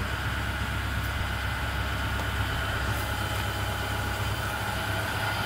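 2010 International CE school bus's diesel engine idling steadily, with a constant low rumble.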